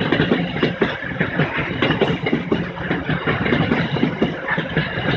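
Coal train hopper wagons rolling past, their steel wheels clattering on the rails in a rapid, uneven rattle over a steady rumble.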